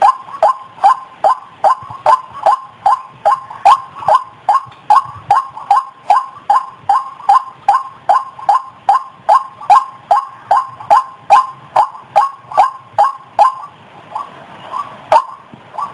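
White-breasted waterhen (ruak-ruak) calling: one harsh note repeated over and over at about two to three a second, with a short break about fourteen seconds in before the run picks up again.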